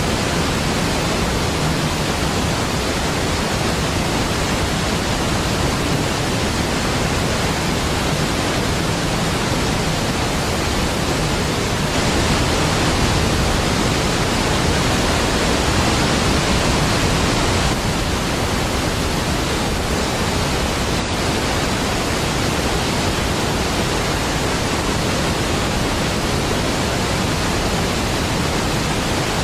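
Niagara Falls pouring: a deep, steady rush of falling water with no breaks, swelling slightly for a few seconds in the middle.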